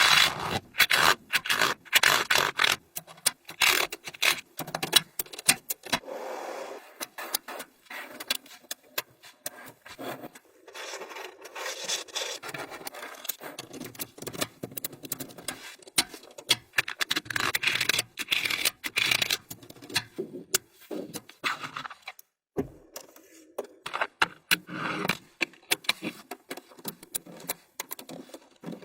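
Small magnetic balls clicking sharply together and scraping against one another as they are snapped and slid into place by hand. Many irregular clicks come throughout, with longer stretches of grinding rub between them.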